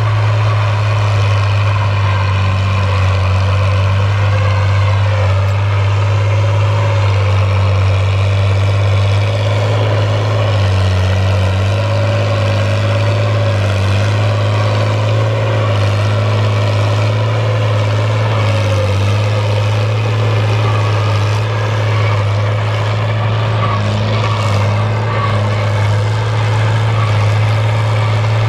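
Fiat 1000 DT tractor's diesel engine running steadily under load while pulling a plow, a loud, even low hum that holds throughout.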